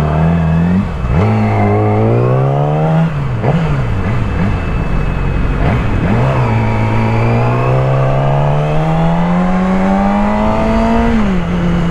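Motorcycle engine accelerating under way, its note climbing in pitch and dropping sharply at gear changes: about a second in, about three seconds in, and near the end after a long steady climb. Wind rushes over the microphone throughout.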